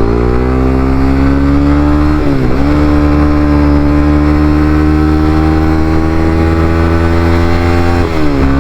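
Honda CBR300R's single-cylinder engine under way, climbing in revs, then briefly dropping about two seconds in and again near the end as the rider shifts gears, holding a nearly steady pitch in between. The rider says the bike sounds horrible; she is taking it to the shop because it has been running badly.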